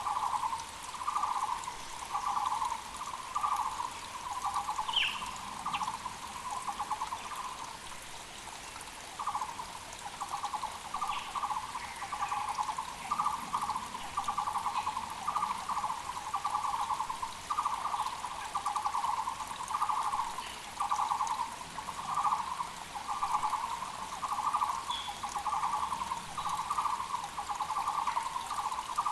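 Muller's barbet (Taiwan barbet) giving its hollow, repeated call, about one to two notes a second, with a short break about eight seconds in. A mountain creek runs faintly underneath.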